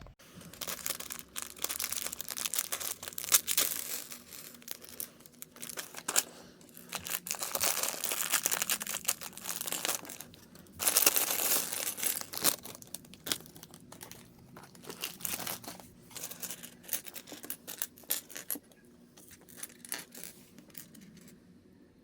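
Crinkling and tearing of a model kit's plastic packaging as it is opened and handled, with scattered small clicks. Loudest about eleven seconds in, dying down near the end.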